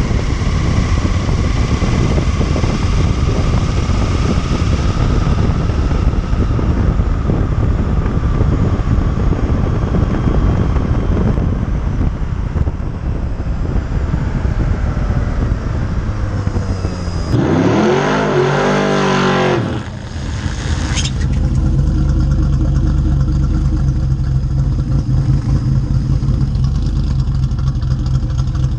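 A car moving at speed, with loud engine, road and wind noise. About two-thirds of the way through, an engine revs up and back down, then settles into a steady low running note.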